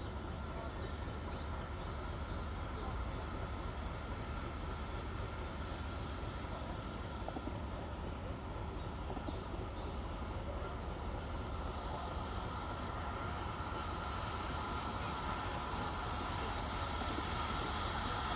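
Steady rumbling of a train on the Severn Valley Railway, growing a little louder near the end. Birds chirp over it in the first half.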